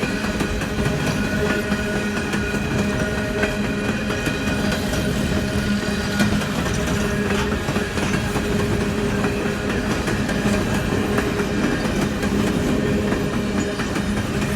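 Coal train rolling steadily past: a continuous rumble of steel wheels on rail with scattered clicks and a few faint steady ringing tones over it.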